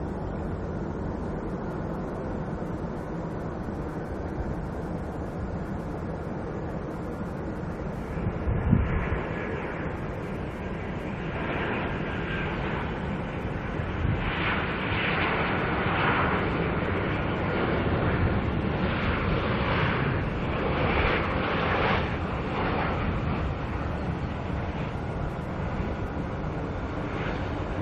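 Airliner engines running as an aircraft passes, a steady low rumble with a louder, wavering rush building about ten seconds in and easing off near the end. A single dull thump comes about nine seconds in.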